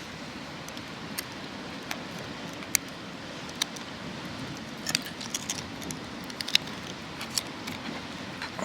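Light, sharp clicks and clinks at irregular intervals over a steady hiss.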